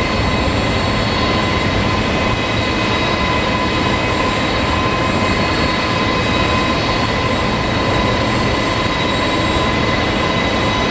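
Jet airliner engines running steadily: a broad rush with a steady high whine that holds one pitch throughout.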